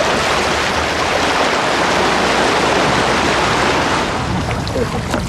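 Loud, continuous churning and splashing of sea water, easing off about four seconds in.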